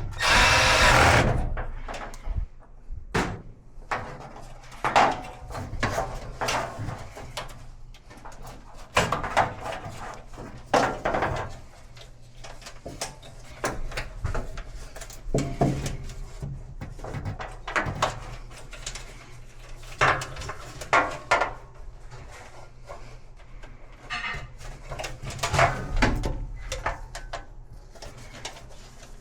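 Short burst of a cordless drill or nut driver right at the start. After it comes a long run of scattered knocks, clicks and clatter from tools and washer cabinet parts being handled during the repair.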